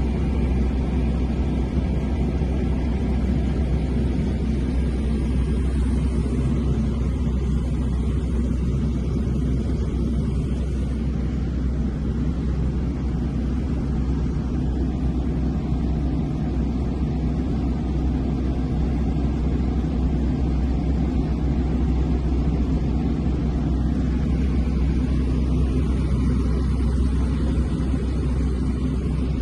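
Steady drone of a small propeller airplane's engine, heard from inside the cockpit.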